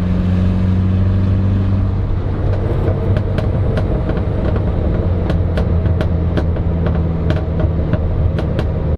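Toyota Corona's engine running through a loud aftermarket exhaust: a steady, even note at first, then rougher from about two seconds in, with a string of sharp exhaust pops and crackles.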